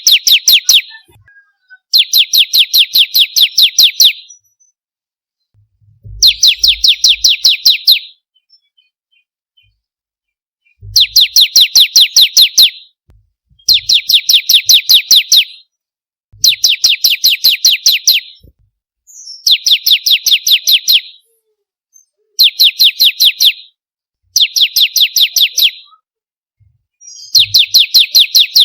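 Bar-winged prinia (ciblek kristal) singing: bursts of about 1.5 to 2 seconds, each a rapid, evenly spaced string of high chipping notes, repeated every two or three seconds.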